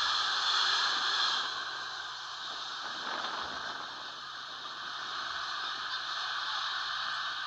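Freight train of tank wagons passing, a steady rush of wheels on rails that drops to a quieter hiss after about a second and a half as the train moves away.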